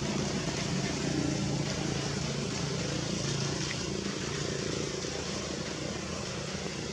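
A steady vehicle engine drone over a broad hiss, growing fainter in the second half.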